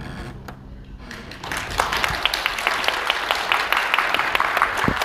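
The last note of the music fades away, then audience applause breaks out about a second and a half in and carries on.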